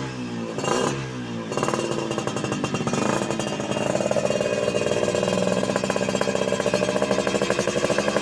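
Yamaha F1ZR two-stroke single-cylinder engine running through an ERS racing muffler: a couple of quick revs in the first second and a half, then held at a steady, pulsing speed that gets a little louder about four seconds in.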